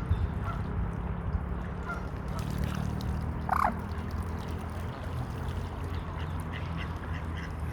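Waterfowl calling: one loud, short honk-like call about three and a half seconds in, with a few fainter calls scattered around it, over a steady low rumble.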